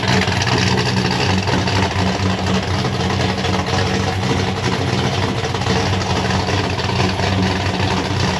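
Ford XB Falcon hardtop's engine running steadily at idle with a deep, even rumble.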